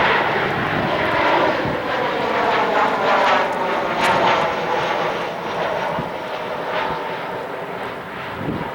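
Boeing 737-800 jet airliner's CFM56 turbofan engines, loud jet noise with a whine that slides gradually lower while the sound slowly fades, as the plane goes past.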